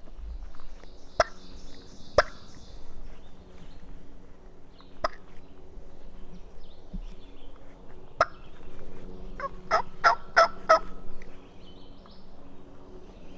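Wild turkey gobbling: a quick rattling run of about five pitched notes in roughly a second, about ten seconds in. Before it come four single sharp snaps or clicks, spread a few seconds apart.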